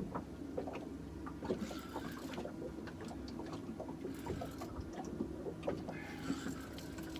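Small fishing boat on the water: a steady low motor hum under water sloshing and splashing, with scattered light clicks and knocks.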